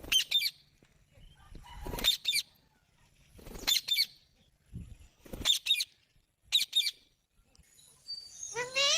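Parrot giving short, high squawking calls in quick clusters of two or three, repeated every second or two, ending with a longer rising call near the end. Low thumps come with a few of the calls.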